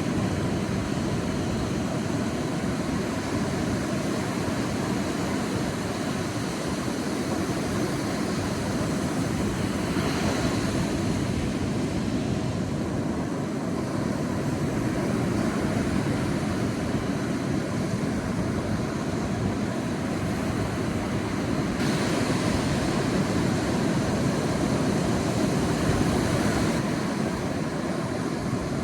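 Sea waves surging on a beach: a steady rumble of surf, with louder washes of a breaking wave about ten seconds in and again past twenty seconds.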